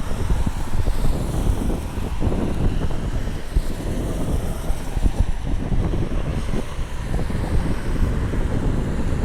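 Wind buffeting the microphone: a low, uneven noise that rises and falls in gusts.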